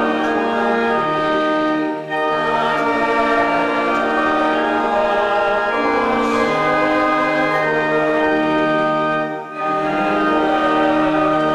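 A hymn sung by a church choir with organ accompaniment: long held chords in phrases, with two short breaks between phrases.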